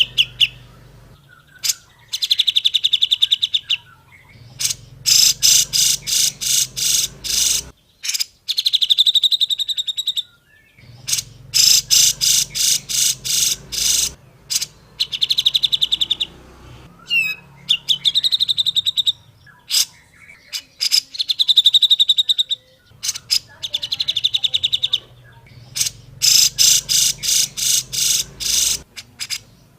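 Grey-cheeked bulbul (cucak jenggot) singing: phrase after phrase of fast, rattling high notes, each phrase a second or two long with short pauses between.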